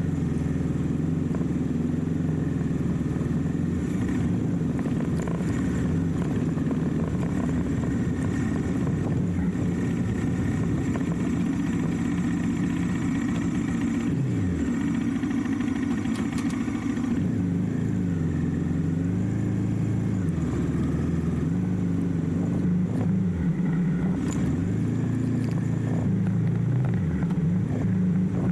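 Motorcycle engine running while riding, its pitch falling and rising again and again as the rider slows, speeds up and changes gear.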